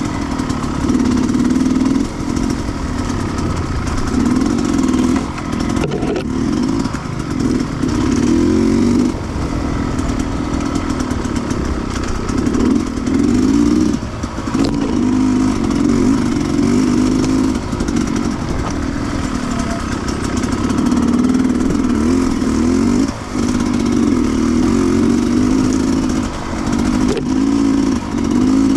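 Sherco 300 two-stroke enduro motorcycle engine on a trail ride, the throttle opened and closed over and over, so the engine note swells and drops every second or two. A few brief knocks sound along the way.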